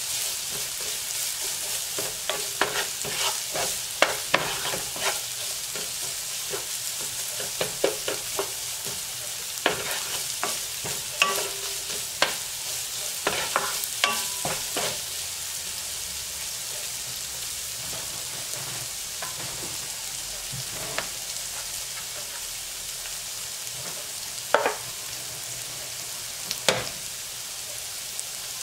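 Sliced red onion and minced aromatics sizzling in oil in a nonstick frying pan while a wooden spatula stirs them. There is a steady sizzle throughout, with frequent scrapes and taps of the spatula in the first half. After that it is mostly the sizzle alone, with two sharp taps near the end.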